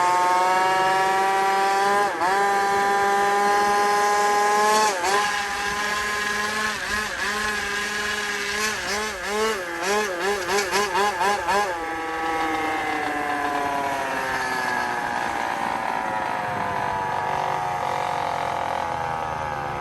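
Small motorbike engine running at high revs, its pitch sagging at first and dipping sharply twice. About halfway through the pitch wavers up and down quickly, about three times a second for three seconds, then it settles into a steady drone that rises and slowly falls.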